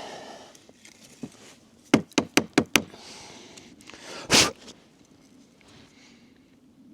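Small pieces of firewood knocking against each other and the fire pit as kindling is laid: a quick run of about five sharp knocks, then a single louder, longer knock about four seconds in.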